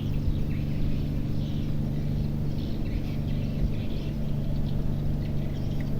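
Small single-cylinder boat engine running at a steady low speed, a constant even hum, with faint bird chirps over it.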